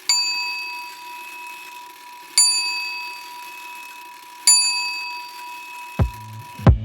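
A bell-like chime struck three times, about two seconds apart, each strike ringing on and fading. Near the end, music with deep bass thumps starts.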